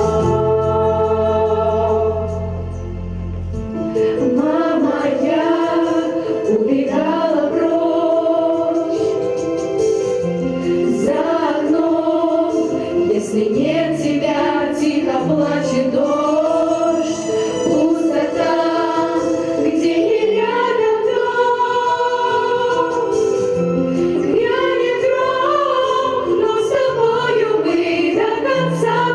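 Vocal ensemble singing a Russian wartime song over an instrumental backing. A held low chord from the accompaniment opens, and the voices come in about four seconds in.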